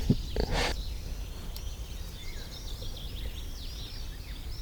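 A small songbird twittering in quick, repeated high chirps over a steady low outdoor rumble, with two brief knocks in the first second.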